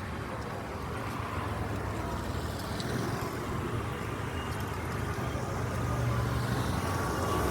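Steady rumble of road traffic, with a low engine drone growing louder toward the end as vehicles come closer.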